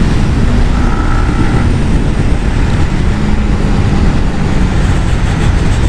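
Wind rushing over the microphone while a Yamaha MT-15's 155 cc single-cylinder engine runs at a steady pitch beneath it, the motorcycle ridden flat out for its top speed.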